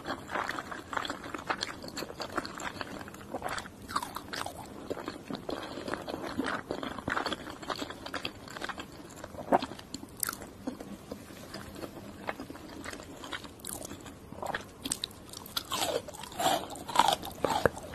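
Close-miked chewing of sushi: wet mouth sounds with irregular small smacks and clicks, a little busier near the end.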